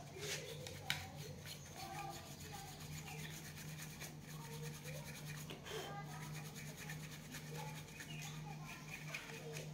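Light rubbing and scraping with many small clicks over a steady low hum, with faint chirps in the background.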